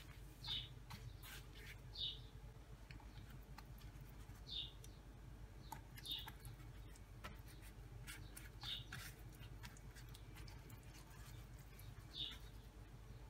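A bird chirping in short single high notes, about six of them spaced a second or a few seconds apart. Under it, faint rustling and light taps from handling thin yufka pastry sheets and dabbing them with a silicone pastry brush, over a low steady hum.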